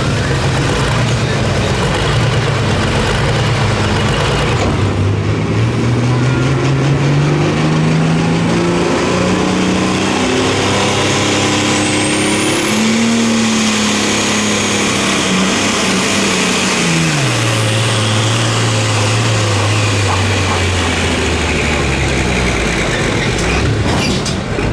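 A pulling truck or tractor's engine at full throttle during a pull. Its pitch climbs steadily for several seconds and holds, with a faint high whistle above it. It drops sharply about two-thirds of the way in, then winds down.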